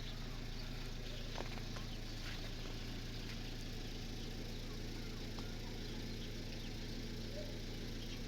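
A steady, low engine hum, like a motor vehicle idling, with a few faint clicks.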